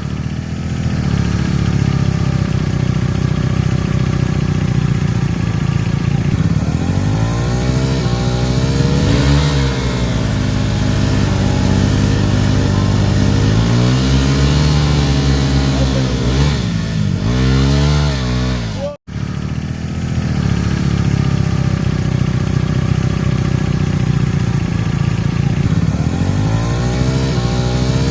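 Single-cylinder motorcycle engines of a KTM 390 Duke and a Bajaj Dominar 250 idling through their exhausts and being revved in throttle blips, the pitch rising and falling with each blip. The sound cuts out briefly about two-thirds of the way in, then a second bike idles and is revved near the end.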